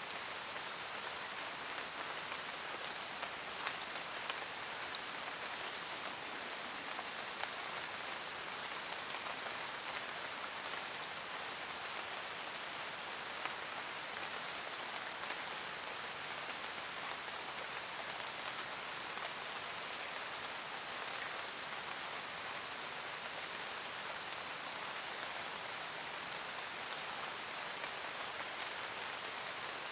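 Steady rainfall in a forest, an even hiss of rain with scattered individual drops pattering on leaves and surfaces.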